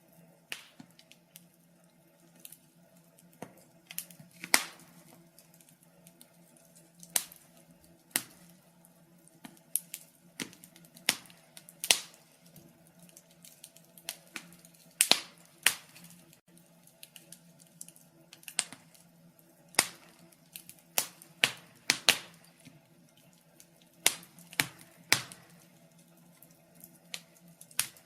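Wood fire crackling: sharp irregular pops and snaps, some much louder than others, over a faint steady low hum.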